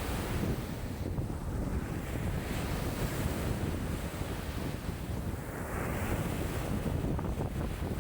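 Lake waves breaking and washing in strong wind, with wind buffeting the microphone as a steady low rumble; one wave washes in more brightly about six seconds in.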